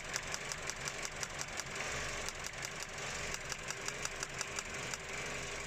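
Vauxhall Corsa petrol engine idling with a misfire in one cylinder: the engine runs with a loud noise and a regular run of sharp ticks several times a second, with a couple of brief breaks in the rhythm.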